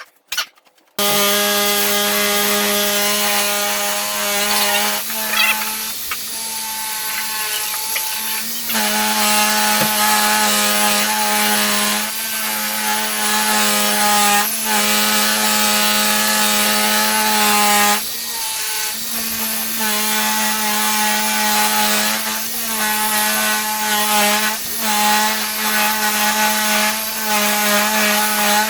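Electric drill spinning a pad against a plastic headlight lens: a steady motor whine whose pitch wavers as pressure changes, easing off briefly about eighteen seconds in.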